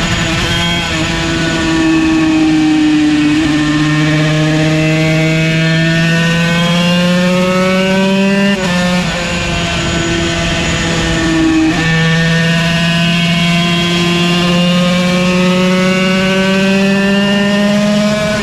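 Yamaha TZ125 two-stroke single-cylinder race engine at high revs under acceleration. Its pitch climbs steadily and drops sharply at gear changes about three and a half, eight and a half and twelve seconds in.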